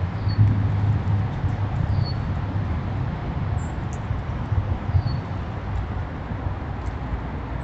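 Backyard ambience: a steady low rumble with a few short, high bird chirps, three of them, about a second in, two seconds in and five seconds in.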